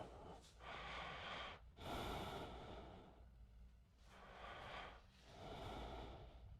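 A man breathing heavily and faintly from the exertion of barbell bench pressing: about four long, noisy breaths in a row.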